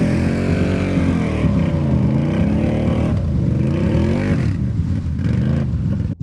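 Can-Am Renegade 1000 XMR ATV's V-twin engine revving up and down repeatedly under throttle, cutting off abruptly near the end.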